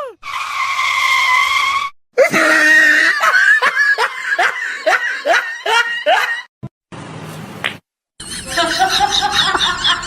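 A held high cry, then a rapid run of short, falling, laughter-like calls at about two a second, with more high chattering calls near the end. Abrupt cuts break the sound between short clips.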